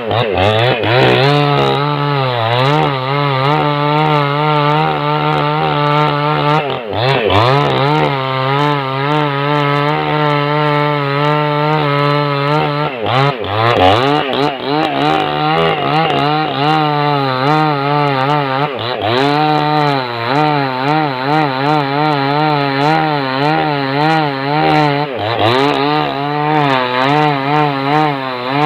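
Small two-stroke chainsaw cutting through a log, the engine running loud and steady under load with its pitch wavering constantly. Several times the engine note drops sharply as the chain bogs in the wood, then climbs back.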